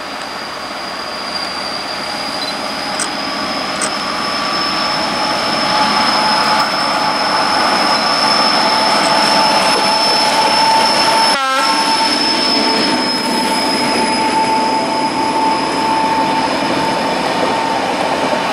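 Czech class 754 diesel-electric locomotive hauling a train of passenger coaches past on a curve: engine running and wheels rolling, growing louder over the first six seconds as it nears. A steady high-pitched squeal from the wheels on the curve runs through it.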